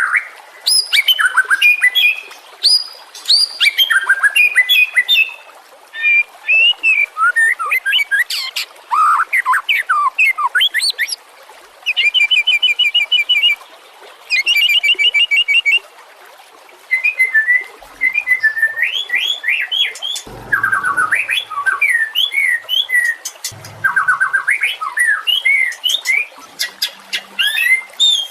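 White-rumped shama (murai batu) singing a varied song of loud whistled notes, slurred phrases and rapid repeated trills, in bursts separated by short pauses.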